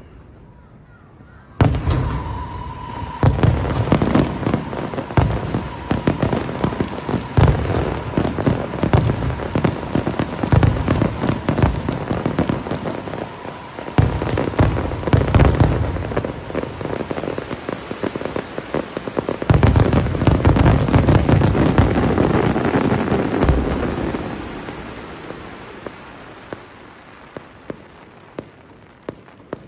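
Aerial fireworks barrage: overlapping booms of bursting shells with dense crackle, starting suddenly a second or two in and running thick for about twenty seconds, then thinning to scattered crackles and single pops near the end.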